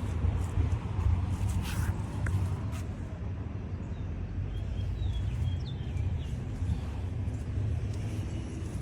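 Steady low outdoor rumble with a few faint bird chirps about halfway through.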